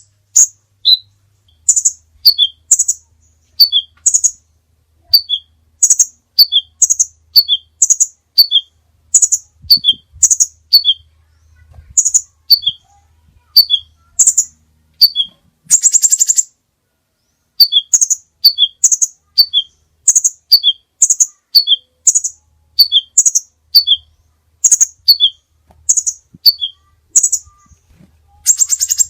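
A songbird singing a repeated phrase of short, loud chirps that alternate between a high and a lower pitch, about two a second, broken by a brief buzzy rattle about halfway through and again near the end.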